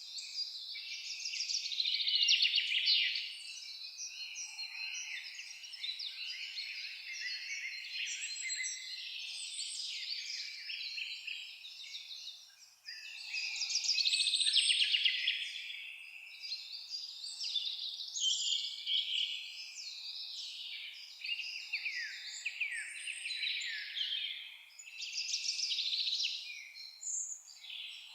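Many small birds singing at once in a dense, overlapping chorus of high chirps and trills, swelling louder about two seconds in and again near the middle.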